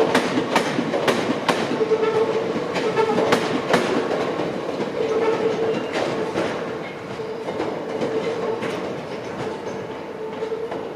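A train moving off through the station, its wheels clicking over the rail joints several times over a steady hum, the sound growing fainter as it draws away.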